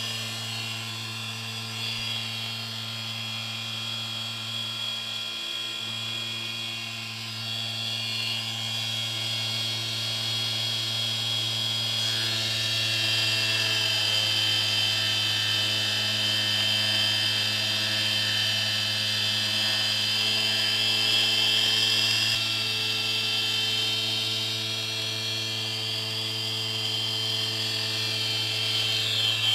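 Stepper motor driving a 4th-axis rotary dividing head: a steady electric whine with high tones that shift twice, over a constant low hum.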